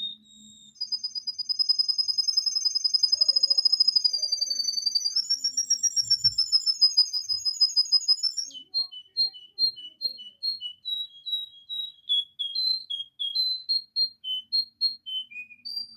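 Domestic canary singing: a long, fast, high trill that steps up in pitch about five seconds in and breaks off after about eight seconds, followed by a run of separate clear whistled notes.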